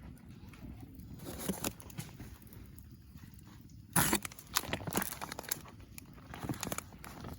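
Irregular knocks and clicks over a low rumble, with the loudest cluster about four to five seconds in.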